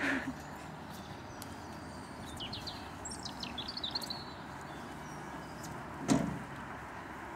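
Outdoor background with small birds chirping a few times around the middle, and a single thump about six seconds in.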